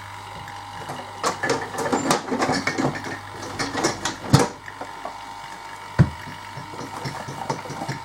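Irregular clicking and rattling of parts being handled, with two sharp knocks about two seconds apart, over a steady low electrical hum.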